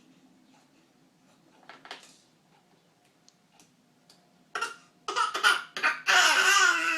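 A person's voice: a few loud, harsh coughing bursts about four and a half seconds in, then a loud drawn-out cry that falls in pitch near the end.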